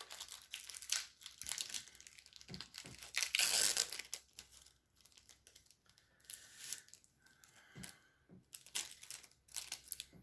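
Trading card pack wrapper crinkling and tearing as a pack is opened, densest and loudest about three to four seconds in, then lighter rustling of wrappers and cards being handled.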